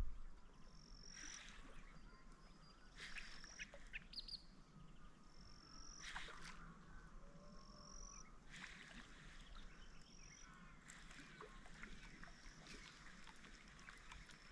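Faint bird calls: short high chirps every second or two, with rougher calls in between.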